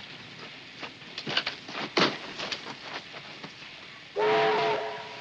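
Steam locomotive whistle blowing once, about four seconds in: a chord of several tones held for about a second, then fading. It is preceded by a scattering of sharp knocks and clicks.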